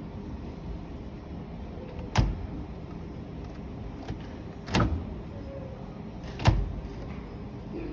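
Three short, sharp knocks over steady background noise, spaced a couple of seconds apart.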